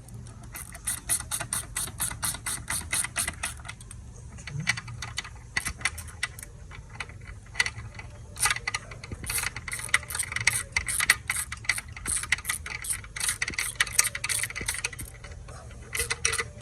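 Hand ratchet wrench clicking rapidly in several runs with short pauses, as intake manifold bolts are run down and tightened in sequence.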